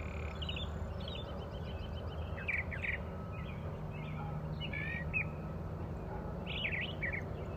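Small birds chirping and singing in short, repeated phrases, over a steady low background rumble.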